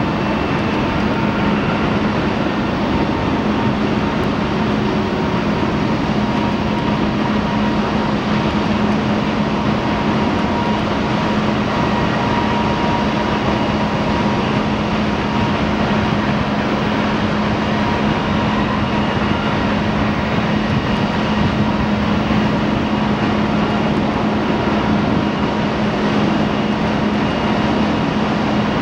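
Jet engines of the Mitsubishi MRJ regional jet, Pratt & Whitney PW1200G geared turbofans, running steadily: a continuous even noise with a steady low hum, unchanging throughout.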